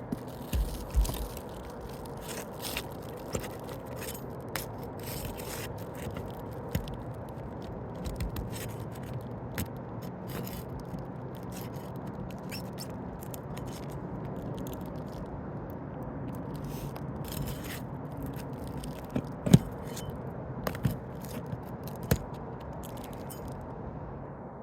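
Hand tool scraping and clicking against asphalt roof shingles as the shingles are worked loose and their nails pulled. There are irregular sharp knocks throughout, the loudest about three-quarters of the way through.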